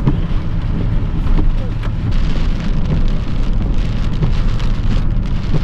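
Steady rumble of a car driving on a wet road, heard from inside the cabin, with rain and water spray hitting the car's body.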